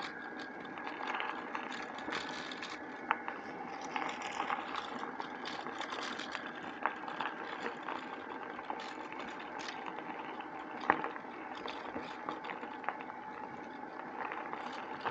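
Bicycle riding along a country path: steady rolling tyre noise with many small scattered clicks and rattles, one sharper click about eleven seconds in.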